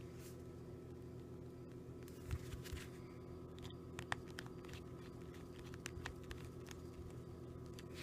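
Faint, scattered light taps and clicks of fingertips on a Nokia Lumia 635's newly replaced touchscreen as it is tested, over a steady low hum.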